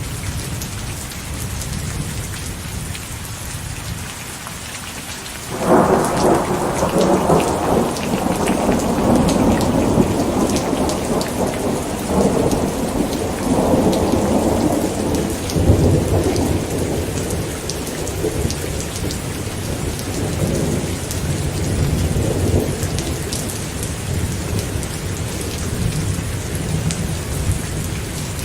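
Steady rain falling, with a thunderclap breaking suddenly about six seconds in and rumbling away over the next ten seconds or so.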